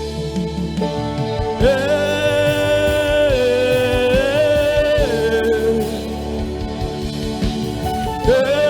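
Live gospel praise music: voices singing long held notes over band accompaniment with a steady bass.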